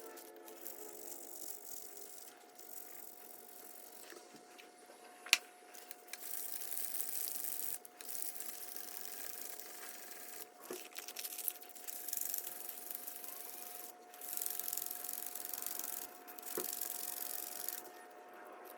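Scraping and rubbing sounds of hand work on a rusted metal awl, coming in spells of a second or two, with one sharp click about five seconds in, over a faint steady tone.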